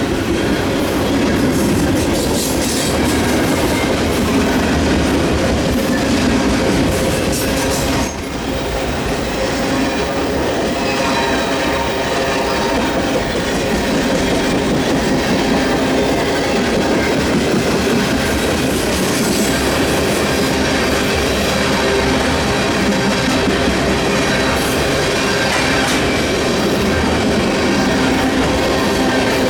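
Freight cars of a long CN mixed freight train, mostly autoracks, rolling past close by: a steady loud rumble and clatter of steel wheels on the rails, with a faint ringing of wheel tones above it.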